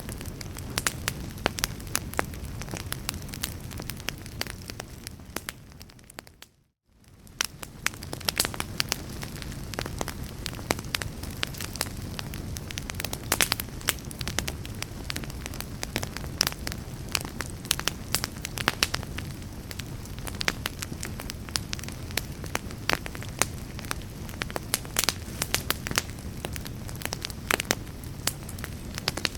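Wood fire in a fireplace crackling, with frequent sharp pops and snaps over a steady low rumble. About six and a half seconds in the sound fades out to silence for a moment and fades straight back in.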